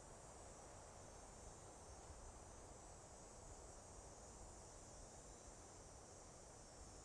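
Very faint, steady soft wind in a forest, with a thin, even high hiss above it and no distinct events.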